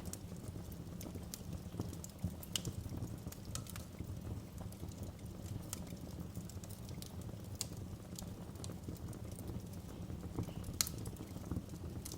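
Wood fire in a fireplace crackling: a steady low flame rumble with scattered sharp pops and snaps at irregular intervals, a few louder ones standing out.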